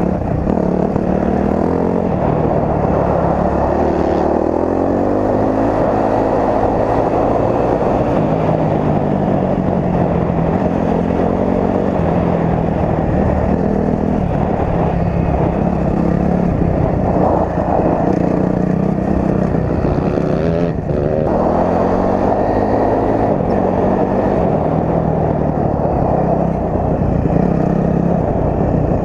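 Honda CRF250R four-stroke dirt bike engine running while being ridden, its pitch rising and falling again and again with the throttle.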